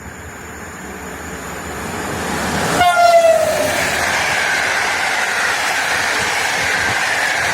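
Passenger train approaching and growing louder, then a short blast of its horn about three seconds in, the pitch dropping as it reaches the camera. The train then runs past at speed with a steady rush of wheel and rail noise.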